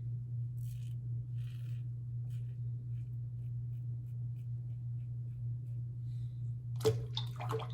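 Brass Karve safety razor with a Gillette Nacet blade scraping through lathered stubble in short, faint strokes during a second shaving pass, over a steady low electrical hum.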